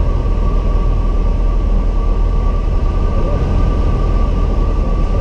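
Light aircraft's piston engine and propeller heard from inside the cockpit: a loud, steady drone with a thin, steady high whine above it.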